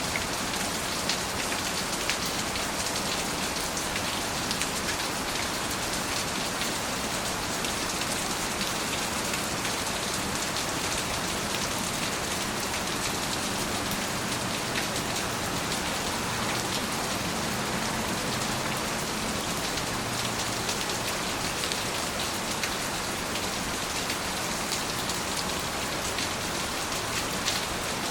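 Steady rain falling, with the patter of individual drops hitting a surface.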